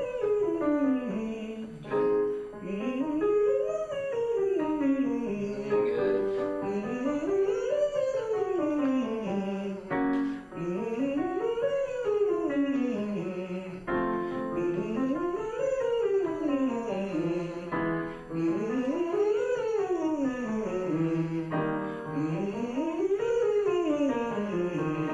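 A male voice student singing a vocal warm-up of smooth pitch slides, each gliding up and back down, about six in a row, one every four seconds, over piano notes accompanying the exercise.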